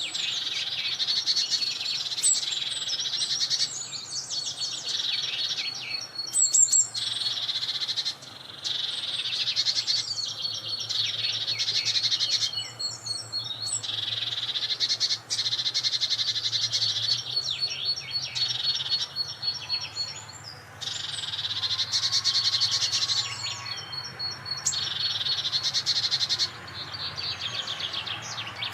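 Birds singing: rapid trilling chirps in repeated bursts of a few seconds each, with short pauses between them.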